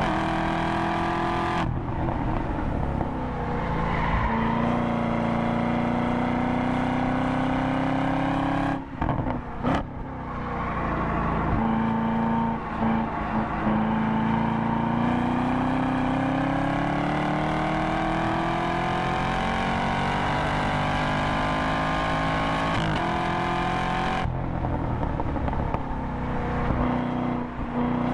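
Chevrolet Camaro V8 heard from inside the cabin under hard track driving: the engine note drops as the driver lifts and brakes, breaks up briefly with gear changes, then climbs in one long steady rise in pitch while accelerating out of a slow corner, falling away again near the end.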